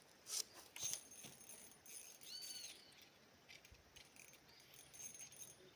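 Faint clicks and rustling, with a short high chirp about two and a half seconds in.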